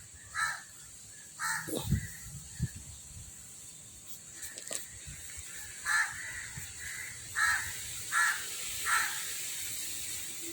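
A crow cawing repeatedly: a few calls in the first two seconds, then a run of four or five more from about six seconds in.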